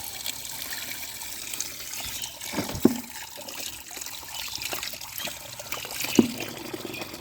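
Water trickling and splashing as muddy toy vehicles are washed, with two short sharper splashes about three and six seconds in.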